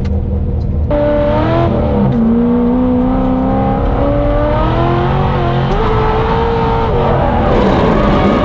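Drift car engine held at high revs, its pitch jumping up about a second in and then rising and falling with the throttle. A harsh tyre noise builds near the end as the car slides.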